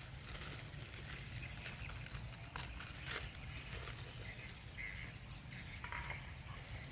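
Rainy outdoor ambience: scattered drops ticking over a steady low rumble, with a few short high chirps in the second half.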